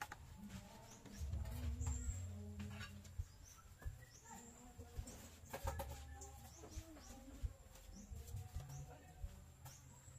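Birds chirping in the background: short high rising chirps repeated every second or so, over faint cooing-like tones, with bursts of low rumbling now and then.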